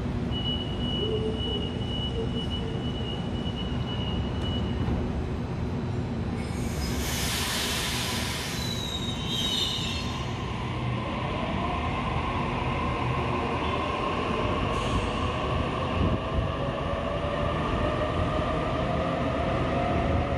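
Sydney double-deck electric train at an underground platform: a thin high tone for the first few seconds, a loud burst of air hiss about seven seconds in as the doors close, then a whine rising slowly in pitch as the train pulls away.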